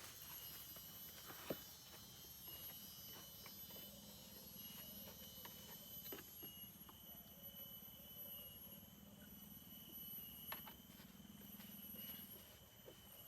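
Faint forest ambience: a steady high-pitched drone of insects, with a few light clicks and one sharp tick about one and a half seconds in.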